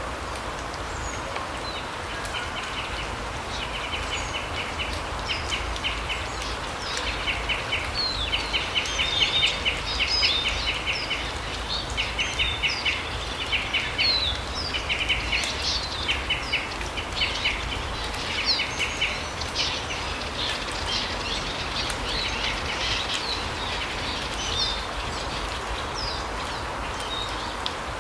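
Small forest birds calling in a mountain larch wood: repeated short, rapid trills mixed with thin high chirps, busiest through the first two thirds, over a steady low rumble of background noise.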